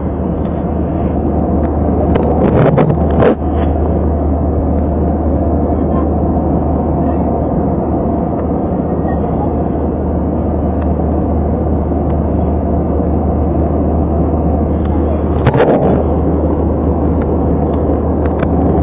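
Airplane engines and airflow making a steady, loud drone with a strong low hum. A couple of brief knocks stand out, one about three seconds in and one near the end.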